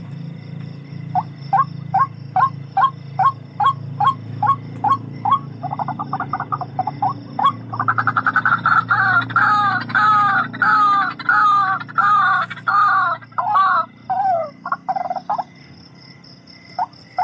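Barred rail (tikling) calling: a long series of loud, clipped notes, about two a second, that quicken into a rapid run and then into longer, drawn-out notes before slowing and stopping near the end. A low steady hum runs underneath.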